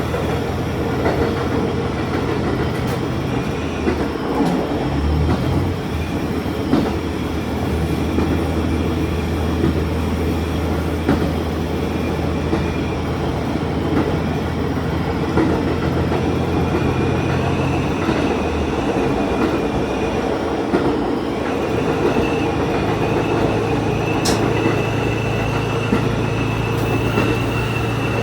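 Diesel railcar running along the line, heard from on board: a steady engine drone whose note shifts several times, over rail rumble with scattered clicks from the wheels. A thin high wheel squeal comes in during the second half.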